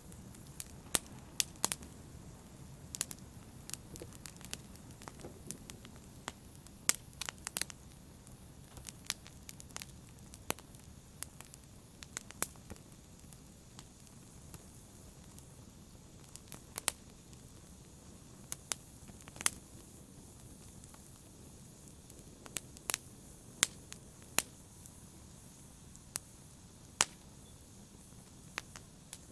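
Fire burning in a fireplace: a low, steady rumble of flames with sharp crackles and pops at irregular intervals, often several close together.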